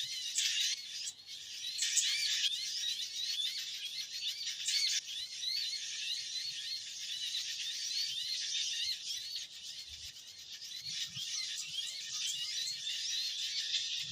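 A noisy chorus of small birds chirping: quick, high, arching notes repeated over and over without a break.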